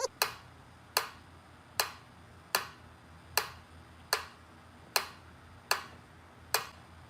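Sharp clicking ticks repeating evenly, about one every 0.8 seconds, nine in all.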